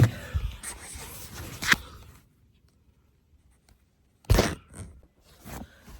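Rustling and light knocks of belongings being handled and shifted, then a short stretch of dead silence, and a dull thump about four seconds in followed by a little more handling noise.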